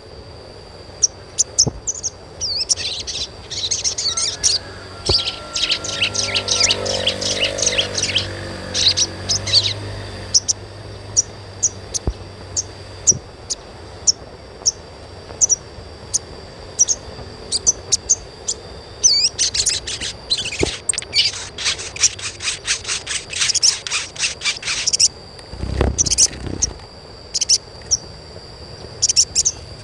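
Sogon (sogok ontong) bird chirping in two long, rapid runs of high twittering notes, with scattered single chirps between them, over a steady high ringing tone. A low thud comes near the end.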